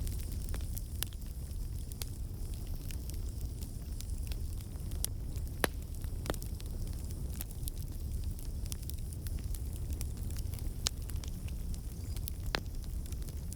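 Campfire burning, with a steady low rumble and scattered sharp crackles and pops; one pop about five and a half seconds in is the loudest.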